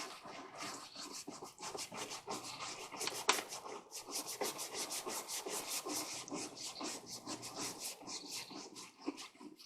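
Small hand scrub brush scrubbing a mildewed wood deck board in quick back-and-forth strokes, about four or five a second, with one sharp knock about three seconds in.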